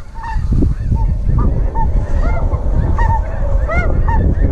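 A flock of snow geese calling, many short, high arched honks overlapping one another, over a heavy low rumble of wind on the microphone.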